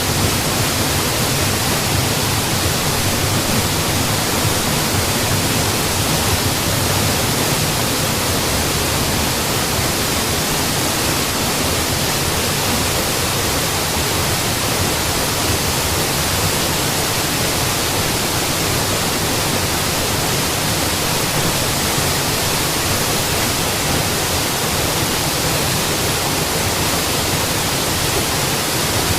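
Mountain waterfall: steady, unbroken rush of falling water.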